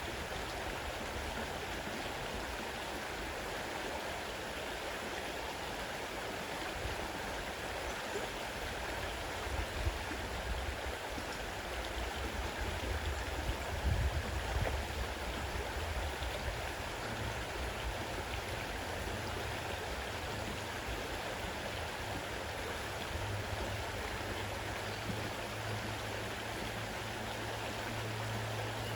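Fast-running river water rushing steadily, with a low rumble swelling in the middle.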